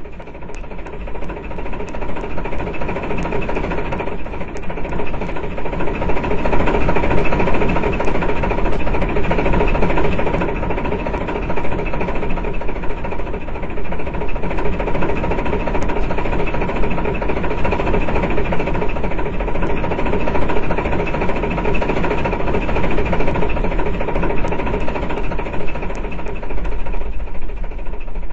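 A train running with a steady, fast rhythmic mechanical clatter and engine vibration, growing louder over the first several seconds and then holding level.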